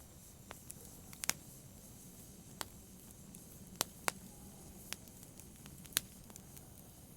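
Wood fire crackling in a fireplace: irregular sharp pops and snaps, two of them louder, about a second in and near six seconds, over a soft steady hiss.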